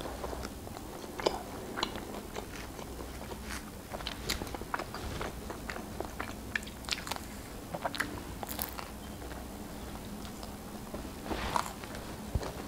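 A person biting into and chewing pizza crust, with scattered crisp mouth clicks and a denser run of crunching near the end.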